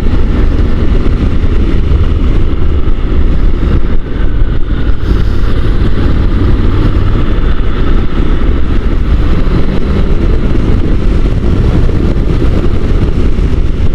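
Motorcycle riding noise: wind rushing over the helmet microphone over the steady running of a Honda NC750 DCT under way, with no gear-change breaks.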